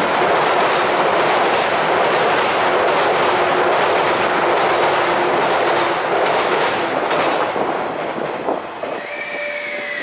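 JR East 185 series electric train passing close by at speed, with a steady rush of wheel and air noise and a regular clatter of wheels over rail joints. The noise drops away suddenly about nine seconds in as the train clears.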